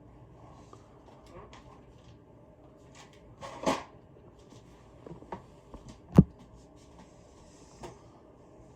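Scattered small knocks and clicks of handling, with a short scraping rustle about three and a half seconds in and one sharp knock a little after six seconds.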